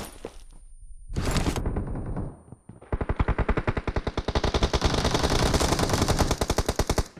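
Automatic gunfire from a shooter video game. A short burst comes about a second in, then a long run of rapid fire starts about three seconds in and stops just before the end.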